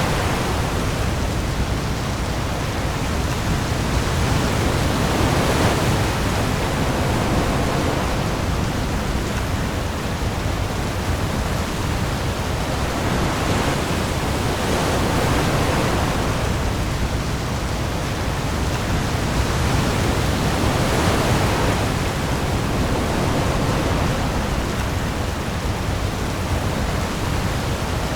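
Heavy rain pouring onto the sea, mixed with waves: a dense, steady hiss over a deep low rumble, swelling gently every few seconds as waves roll through.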